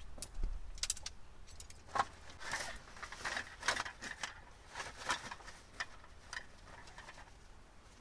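Irregular clinks, clicks and rustling of small objects being handled, busiest in the middle seconds and thinning out near the end.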